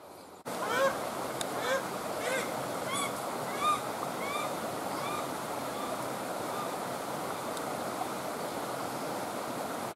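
A bird giving a series of short rising-and-falling calls, about one and a half a second, that stop after about five seconds. Under them, the steady rush of a stream.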